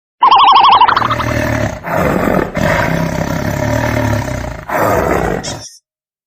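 A brief wavering, warbling high call at the start, then a large animal roaring in three long, rough roars that stop shortly before the end.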